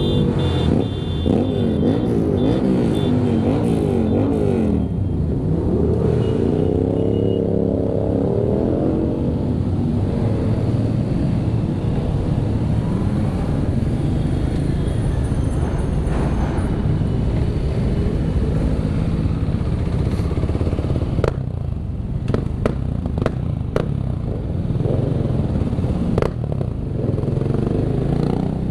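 Motorcycle engines of a large group ride: a Yamaha MT-07's parallel-twin runs underneath while other bikes' engines rev and pass, their pitch rising and falling. A run of sharp clicks or knocks comes in the second half.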